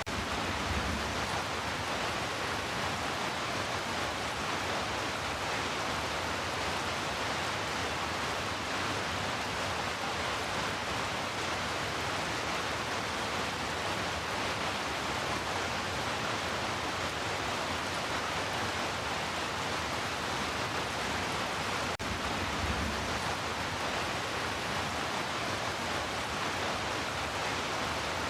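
Heavy rain falling steadily, an even hiss with no let-up, with a brief low rumble about a second in and again about three-quarters of the way through.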